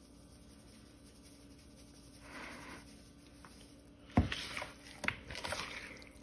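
Seasoning being handled over raw chicken wingettes: a soft rustle about two seconds in, then a sharp knock a little after four seconds followed by a run of small clicks and rubbing as the chicken pieces are handled.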